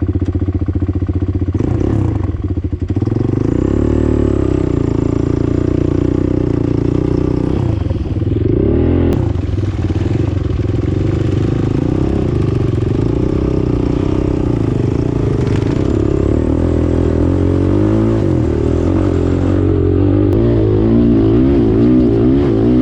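Off-road vehicle engine running while riding, its pitch rising and falling with the throttle. The throttle drops briefly about two seconds in and again about eight seconds in.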